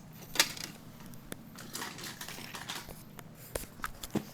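Scattered small clicks and taps of plastic TOMY toy trains and track pieces being handled, the sharpest about half a second in and several more near the end.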